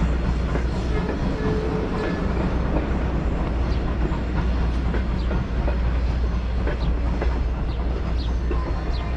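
A train rolling along the rails: a steady low rumble with scattered clicks and brief squeaks from the wheels on the track.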